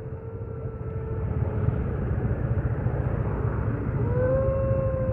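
Road traffic: vehicle engines running in a steady low rumble that grows louder, with a drawn-out droning tone from about four seconds in.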